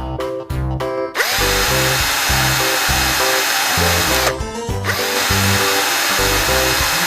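A small power drill runs twice, each run starting with a rising whine as the motor spins up and then holding steady for about three seconds, with a short break between. Background music plays under it.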